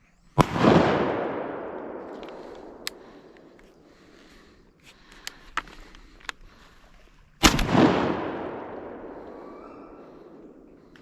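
Two shotgun shots about seven seconds apart, each a sharp crack followed by a long rolling echo that dies away over several seconds. A few small clicks come between the shots.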